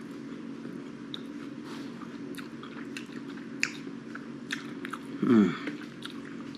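A person chewing soft homemade pizza puff bites up close, with small wet mouth clicks and crackles throughout. About five seconds in there is a short falling hum from the throat.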